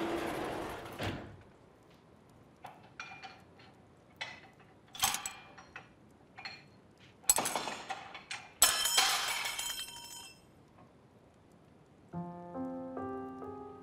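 A series of knocks and clinks, with two louder crashing impacts followed by a ringing hiss about seven and nine seconds in. Soft piano notes begin near the end.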